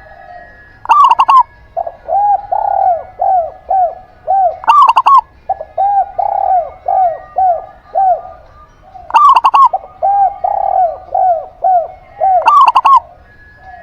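Doves cooing, a zebra dove and a spotted dove: runs of short, arched coo notes, broken about four times by louder, sharper calls.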